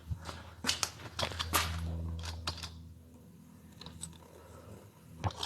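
Scattered handling noises: sharp clicks, knocks and brief rustling, most of them in the first two seconds and again near the end, over a steady low hum.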